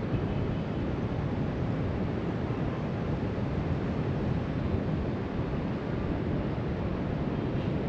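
Steady wind rumbling on the microphone, mixed with the wash of distant surf breaking on the shore below.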